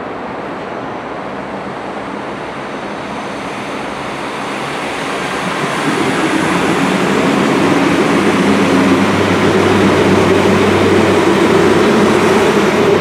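NordWestBahn regional multiple-unit train approaching and passing on the near track. Wheels running on the rails, growing louder from about four seconds in, then staying loud with a steady low hum as the carriages go by.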